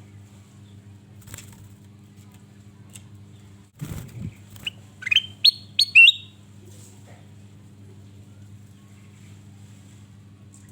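Kutilang emas, a bulbul, calling: four short rising whistled notes in quick succession about five seconds in, just after a low thump. A steady low hum runs underneath.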